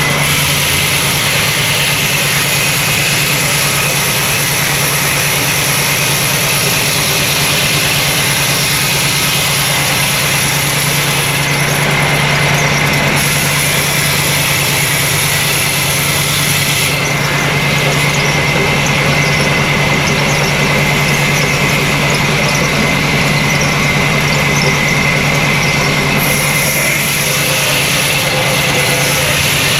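Sawmill machinery running steadily: a constant low machine hum with a thin high whine, the upper hiss shifting a few times.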